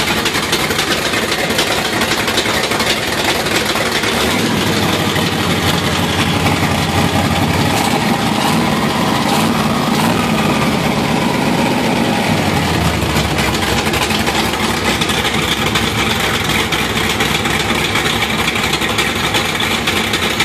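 Twin-turbo 383 V8 engine running steadily at idle, test-fired to check the turbo plumbing for exhaust leaks. Its low tone shifts between about four and thirteen seconds in, then settles back.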